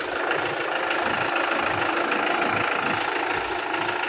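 Mahindra 595 DI tractor's diesel engine running steadily.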